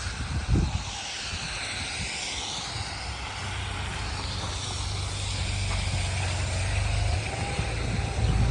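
A motor vehicle running, its steady low drone slowly growing louder over several seconds and easing near the end. A low thump comes about half a second in.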